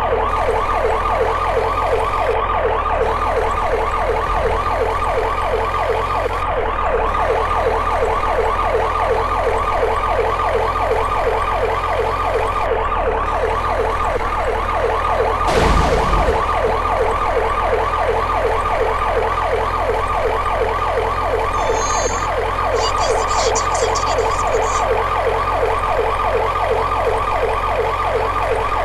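Police car siren sounding continuously in a fast yelp, its pitch rising and falling several times a second, over a steady low hum, with a brief thump about halfway through.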